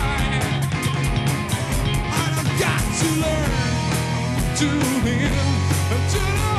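A rock band playing a song, with a steady drum beat under bass and guitar.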